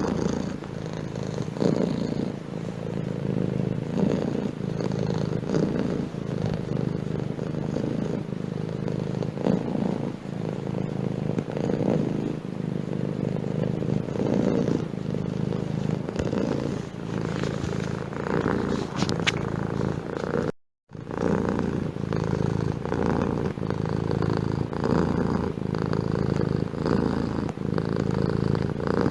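Domestic cat purring steadily and close up, in a continuous low rhythmic rumble. The sound drops out for a split second about two-thirds of the way through, then the purring carries on.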